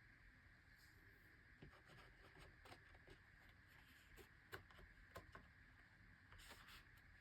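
Near silence: faint room tone with a steady faint hum and a scattering of soft ticks and rustles from the large paper pages of an oversized hardcover art book being handled.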